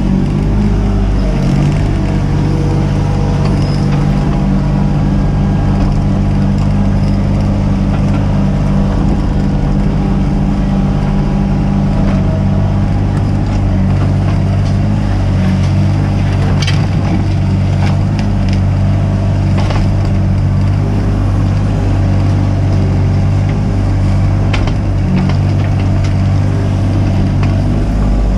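A mini excavator's diesel engine runs steadily under work, with a few sharp knocks from the machine or its bucket in the second half.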